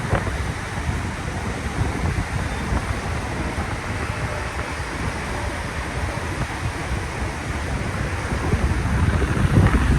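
Wind buffeting the microphone over the steady wash of surf, with a louder gust near the end.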